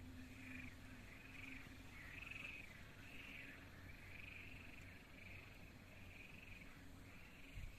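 Faint animal calls repeating a little more than once a second, each a short arched sweep, over quiet outdoor background hiss.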